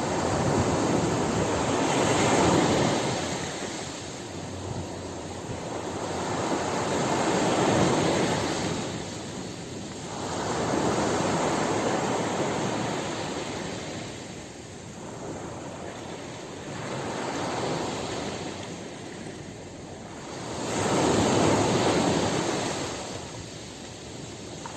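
Ocean surf breaking on a beach: waves swell in, crash and wash back out, about five times, every four to six seconds.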